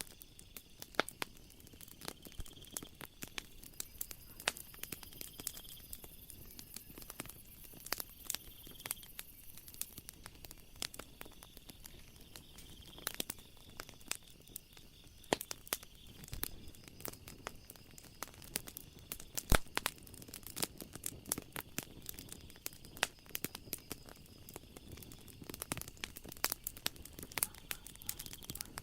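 Wood fire crackling: irregular sharp pops and snaps over a soft hiss, with one louder pop about two-thirds of the way through. A faint high steady trill sounds behind it on and off.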